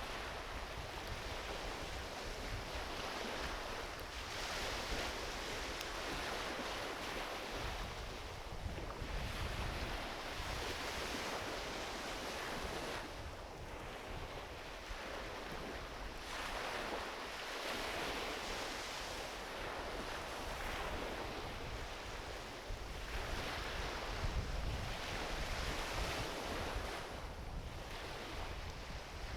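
Small ocean waves breaking and washing up a beach, the surf hiss swelling and fading about every six to seven seconds. Wind rumbles on the microphone underneath.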